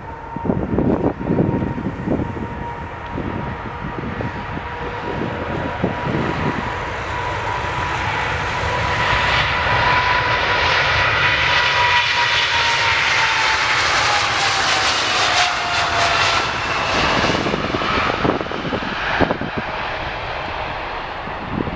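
Jet airliner passing by, its engine roar swelling to a peak midway while a steady engine whine slides down in pitch as it goes past. Wind buffets the microphone in the first few seconds.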